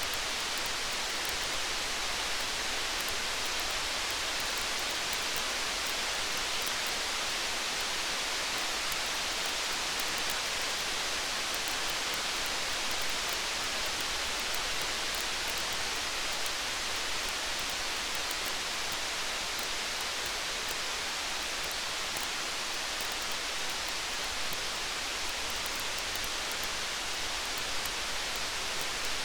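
Steady rain hiss with faint, scattered crackling ticks from a campfire.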